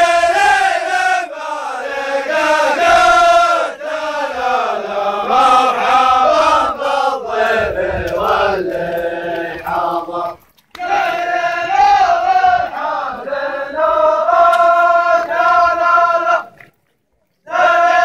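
A group of men chanting a zamil of welcome, the tribal chanted poem of Najran: many voices together on a repeated melodic line, breaking off briefly about ten seconds in and again near the end.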